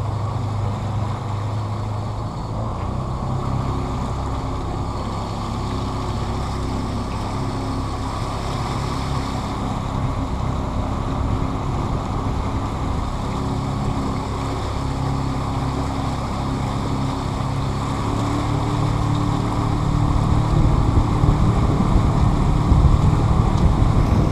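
A tour boat's motor running steadily under way, with rushing water and wind noise; the engine grows louder about twenty seconds in.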